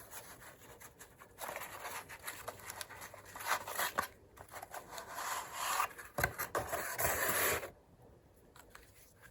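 Plastic cordless phone handsets and their packing being handled and unpacked: rubbing and scraping with small clicks. The sound stops about three-quarters of the way in.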